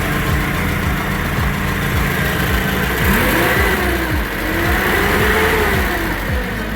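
Forklift engine running, revved up and back down twice in the second half.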